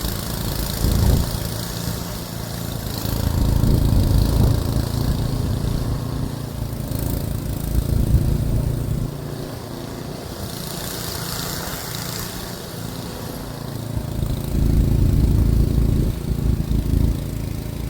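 Gasoline snowblower engine running steadily, rising and easing in loudness as it works, with swells of rushing hiss now and then.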